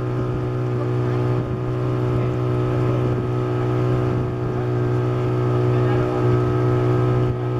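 A boat's engine runs at a steady speed, giving an even, unbroken drone.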